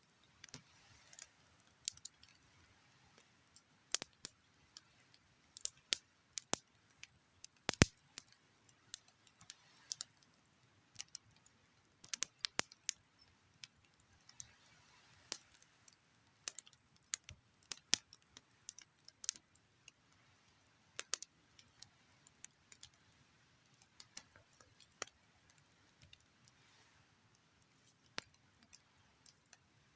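Wood campfire crackling: irregular sharp pops and snaps, several a second, over a faint hiss.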